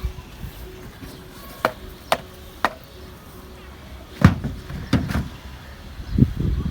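A series of six knocks at uneven intervals: three sharp clicks, then three heavier, duller thuds.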